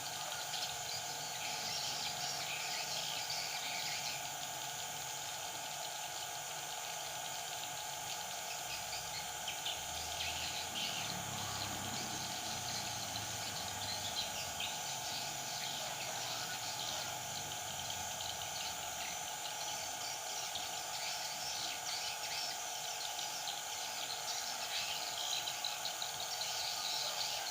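Sooty-headed bulbuls calling with short, scattered chirps over a steady insect-like background drone.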